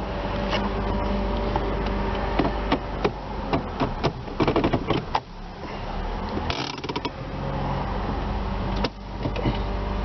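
Honda Accord engine idling with a steady low hum, while a run of clicks and knocks from handling things inside the car comes and goes over it, busiest about four seconds in.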